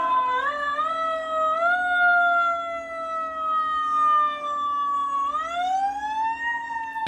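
Emergency-vehicle siren wailing: its pitch climbs in a few steps, sinks slowly, then rises again near the end.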